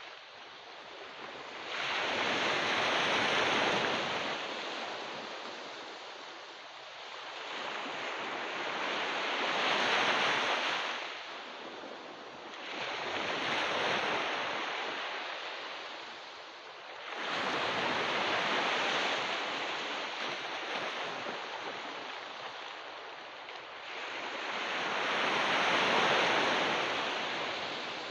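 Ocean waves breaking and washing up a beach, one after another. Each one swells and fades over a few seconds, five times in all.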